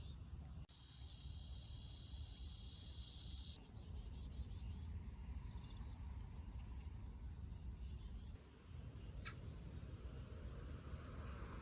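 Faint outdoor ambience: a steady low rumble with high, rapid chirping calls in the first few seconds, and a single sharp click about nine seconds in.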